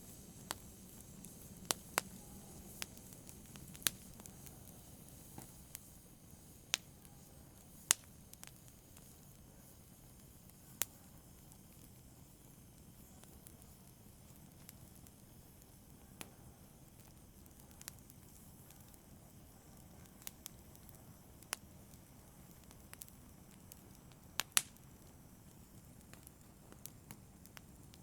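Wood fire crackling in a fireplace: irregular sharp pops and snaps over a soft, steady hiss. There are more pops in the first few seconds and a close pair of louder snaps near the end.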